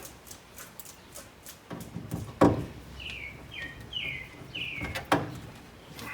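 Two sharp knocks, about two and a half seconds apart, from hand work on the car's interior. Between them a bird calls four short, falling chirps in a row.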